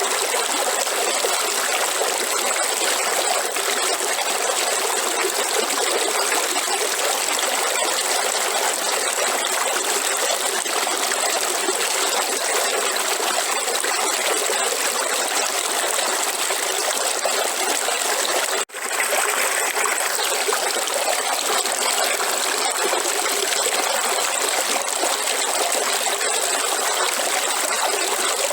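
River water flowing and rushing steadily, with a thin steady high band above it. The sound cuts out for an instant about two-thirds of the way through, then resumes.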